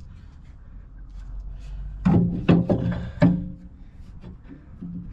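Four hammer blows on steel bodywork about halfway through, each one ringing briefly like struck metal, over a low steady hum.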